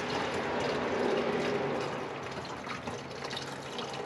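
Windshield washer fluid pouring from a jug into a car's washer reservoir, the stream strongest in the first second or so and easing off about two seconds in.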